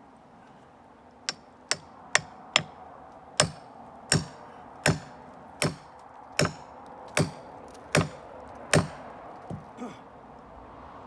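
A series of about a dozen sharp chopping strikes. The first few come quickly, then they fall into a steady pace of a little more than one a second, and two lighter knocks follow near the end.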